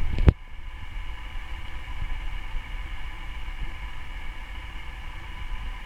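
A single sharp click, then steady background noise: a low rumble with a faint hiss and a thin steady hum.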